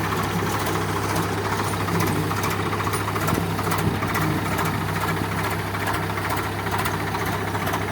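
Tractor diesel engine running steadily, with an even repeating knock.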